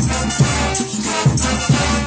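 Bolivian brass band playing a cumbia, with sustained horn tones over a steady beat.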